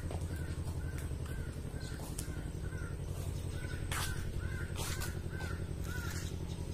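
A bird calling over and over in short, evenly spaced notes, about two a second, over a steady low rumble, with a few clicks in the second half.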